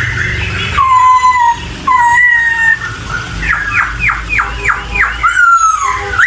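A poksay (laughingthrush) singing loud whistled notes with falling slurs, then a quick run of about six notes in the middle, ending in a long slurred note.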